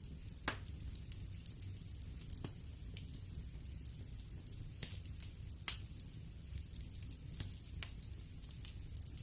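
Wood fire burning in a fireplace: a steady low rumble with scattered sharp crackles and pops, the loudest pop a little past halfway.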